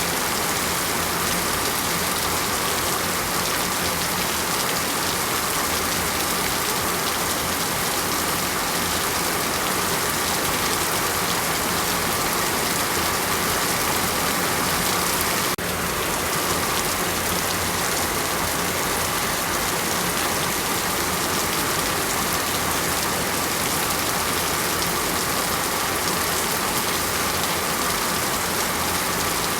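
Heavy rain falling steadily as an even hiss, with a brief dip in level about halfway through.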